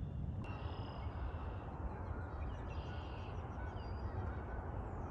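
Bald eagle calling: two high, thin call phrases, the first about half a second in and the second around three seconds in, over a steady low rumble.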